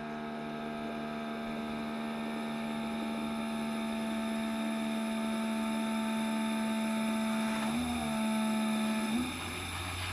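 Keurig K-Mini single-serve coffee maker's pump running as it brews a K-Cup: a steady buzzing hum. About eight seconds in the hum wavers, and shortly after it shifts into a lower, rougher sound.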